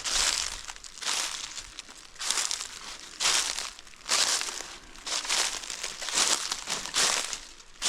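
Footsteps crunching through dry leaves and forest-floor debris at a walking pace, about one step a second.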